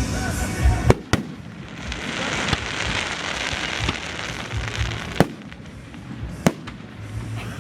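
Aerial fireworks bursting: a string of sharp bangs, roughly one every second or so, with a dense crackling shower starting about two seconds in and fading a few seconds later.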